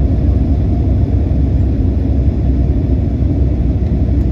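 Steady low rumble of an airliner cabin in flight: engine and airflow noise, constant and unbroken.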